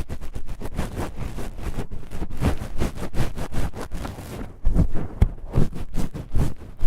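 Black foam pad rubbed and scratched roughly: fast, irregular scraping and rustling, with heavier low thuds in the second half.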